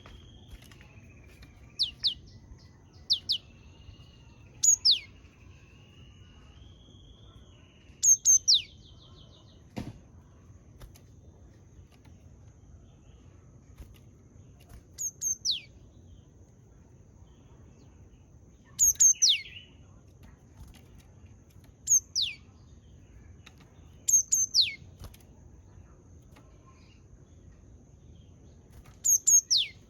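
Japanese tit singing: short phrases of two or three sharp, quickly falling whistled notes, repeated every few seconds. A faint wavering background call runs under the first few phrases, and there is a single click near the middle.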